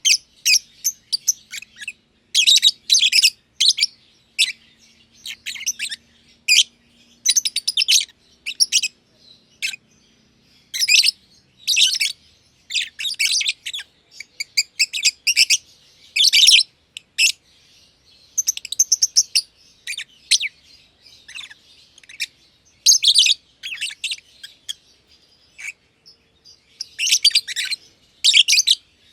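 Black-masked lovebirds (Agapornis personatus) chirping: quick, shrill chirp bursts in irregular bunches, with a few short pauses between them.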